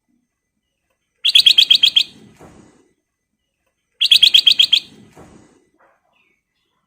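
Black-crested bulbul (kutilang emas) calling: two short, loud rapid trills of about eight sharp notes each, the second about three seconds after the first.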